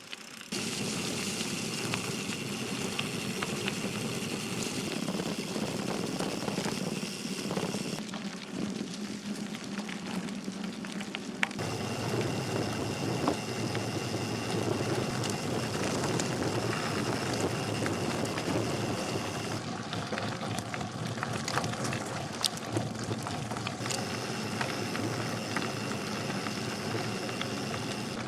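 ROSE Backroad gravel bike's tyres rolling over gravel and dirt trail, a steady crunching rush with scattered sharp clicks and rattles from stones and the bike. The rolling noise gets heavier and lower about eleven seconds in.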